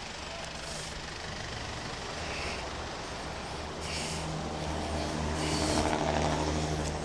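Street traffic: a vehicle engine runs steadily, with a few short hisses.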